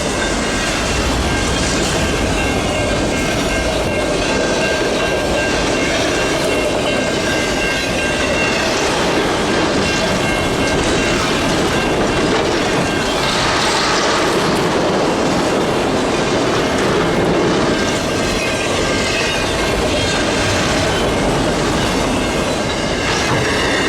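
Freight cars of a long train rolling past at speed: a steady, loud rumble and clatter of steel wheels on the rail, with faint high squealing tones running through it.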